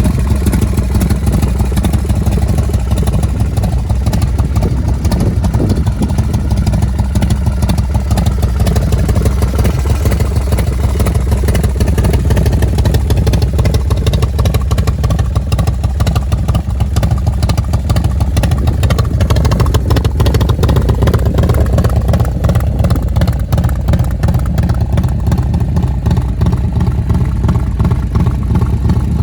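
1993 Harley-Davidson FXRS's Evolution V-twin running through a Supertrapp exhaust, a loud, steady, deep-pitched exhaust note at low revs, with a slight rise and fall in pitch about two-thirds of the way through.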